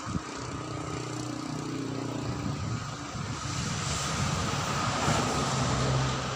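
A motor engine droning steadily, growing louder to about five seconds in and then easing off.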